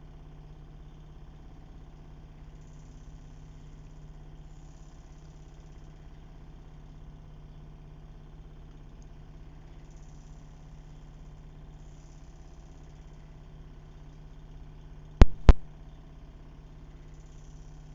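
Steady low hum of vehicle engines idling and running by the roadside. Two sharp clicks in quick succession about fifteen seconds in.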